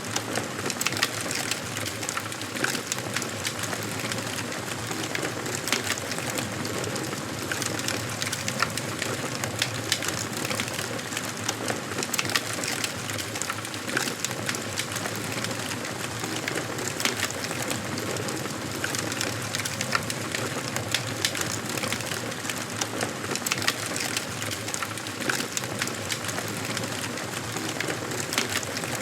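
Wood fire crackling in a fireplace: irregular sharp pops and snaps over a steady hiss of burning wood.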